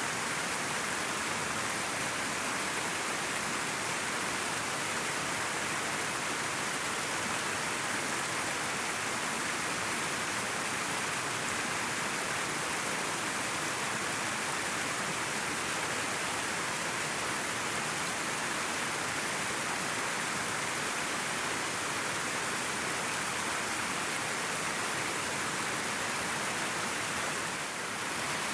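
River water flowing and rushing steadily, an even hiss of moving water with no distinct splashes or breaks.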